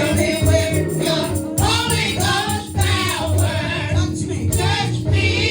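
Gospel praise team singing together over steady low instrumental accompaniment.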